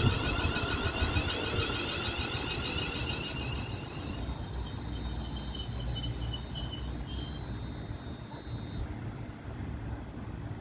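Electric train passing through the station. A loud high rushing sound stops about four seconds in, leaving a fainter low rumble and a thin high whine as the train moves away.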